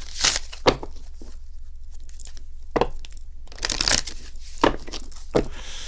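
Oracle cards being shuffled and handled: several separate papery rustles, the longest about three and a half seconds in.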